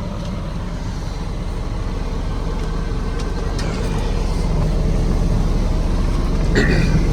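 Caterpillar C7 diesel engine of a 2006 Peterbilt 335 idling with a steady low rumble.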